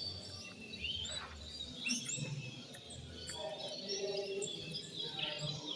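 Many small cage birds chirping and twittering together, short overlapping calls throughout.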